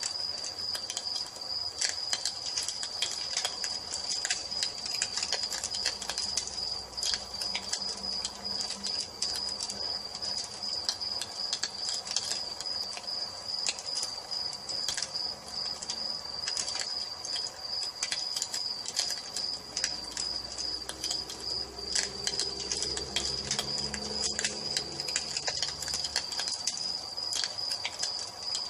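Wood fire crackling with frequent sharp pops and snaps, over a steady, high, pulsing trill of crickets.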